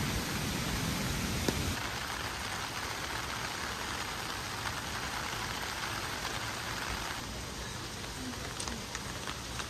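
Rain falling, a steady hiss of rain on surfaces with a few single drops ticking near the end.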